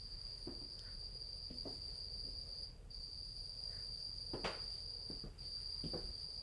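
A cricket chirping in one continuous high-pitched trill, broken by two short pauses. A few soft knocks sound underneath, the loudest a little past the middle.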